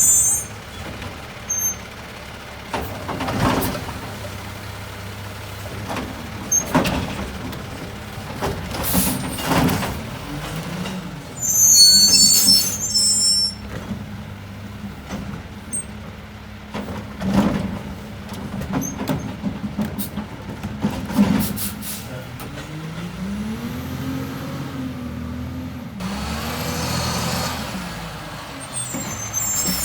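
Peterbilt 520 garbage truck with a Loadmaster Eclipse automated side-loader at work: the diesel engine runs steadily under a series of knocks and bangs. A loud burst of air-brake hiss comes about twelve seconds in. Near the end the engine revs up and down several times.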